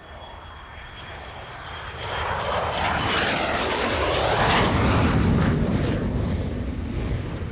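An aircraft flying over: the engine noise swells to a peak about five seconds in, dropping in pitch as it passes, then begins to fade.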